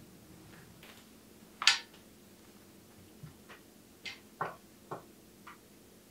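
A string of short, light clicks and knocks from bike parts and tools being handled at the workbench. The loudest comes about one and a half seconds in, and a quicker run of smaller ones follows in the second half.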